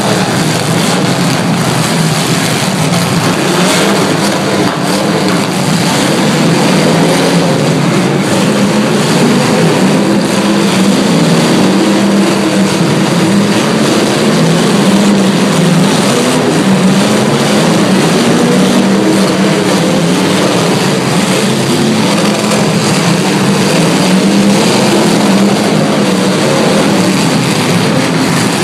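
Several demolition derby cars' engines revving hard all together, their pitch wavering up and down.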